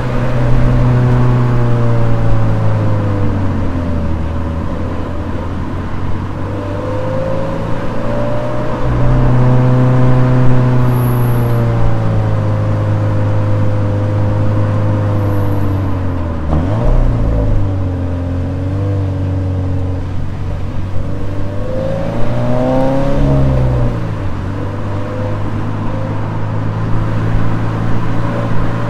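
Toyota 86's 2.0-litre flat-four boxer engine pulling on the downhill, its note holding steady and then shifting with throttle and gear changes: a dip and climb just past halfway, and a short rise and fall about three-quarters of the way through.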